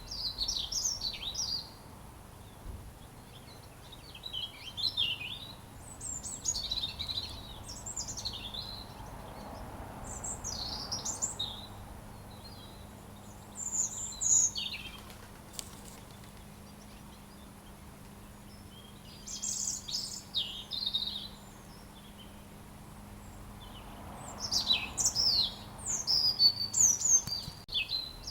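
Robin singing: phrases of high, quickly varying warbling notes, each a second or two long, repeated with pauses of a few seconds between them, over a faint steady low hum.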